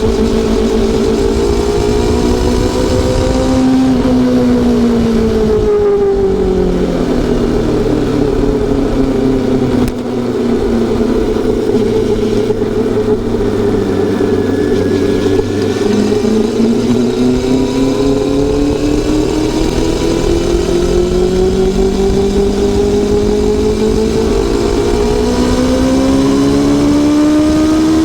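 Honda CB400SF Super Four's inline-four engine and exhaust under way. The revs drop off about four seconds in, run low and steady for a while, then build up again through the last ten seconds or so as the bike accelerates.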